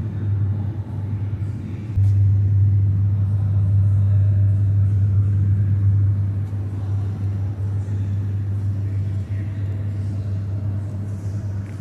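A steady low rumble that jumps suddenly louder about two seconds in and eases back after about six seconds.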